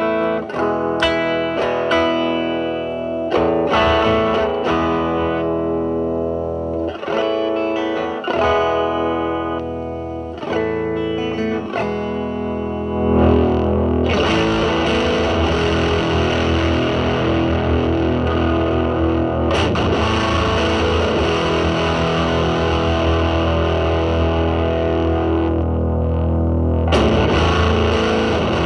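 Telecaster electric guitar through a Mosrite Fuzzrite clone fuzz pedal (2N2369 silicon transistor) into a Marshall Valvestate on its drive channel, with the guitar's volume rolled back to clean up the fuzz. For about the first 13 seconds, separate picked notes and chords ring out clearly. After that, the sound turns into a dense, continuous fuzzy wash with a short dip near the end.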